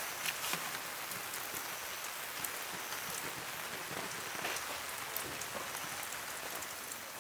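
Steady rain: an even hiss with scattered individual drops ticking throughout.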